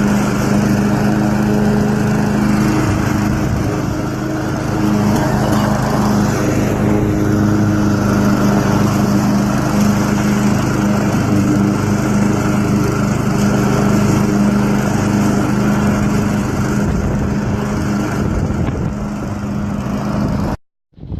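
Husqvarna AWD walk-behind mower's small engine running steadily, with a brief dip in level about four seconds in. The sound cuts off suddenly near the end.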